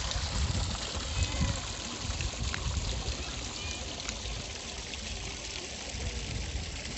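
Flowing water, a steady rushing noise.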